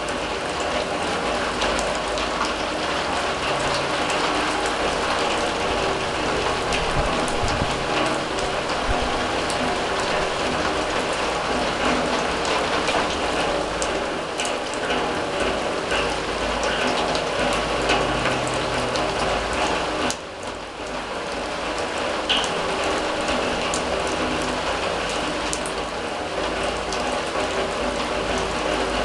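Rain falling on a steel drum: a steady, dense patter of drops ticking on metal, briefly quieter for about a second some twenty seconds in.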